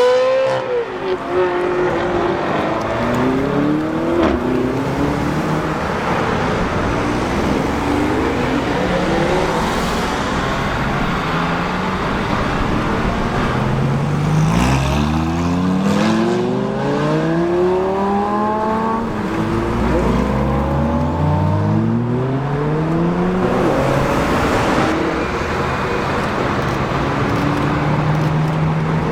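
Sports car engines accelerating hard one after another, each rising in pitch and dropping briefly at gear changes. Near the end an engine idles steadily.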